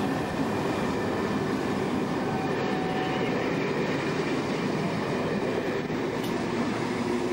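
Passenger train coaches rolling past close by, with a steady rumble of wheels on the rails.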